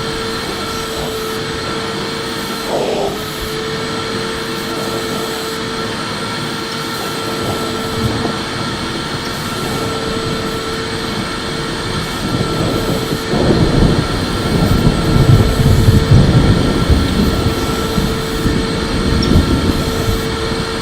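Electric vacuum cleaner running steadily, its motor giving a constant whine. About two-thirds of the way in, a louder, rougher low rumble swells for a few seconds, then eases back.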